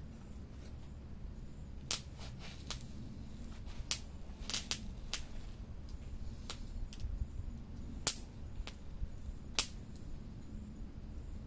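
Wood fire crackling: irregular sharp pops and snaps, the loudest about eight and nine and a half seconds in, over a low steady rumble.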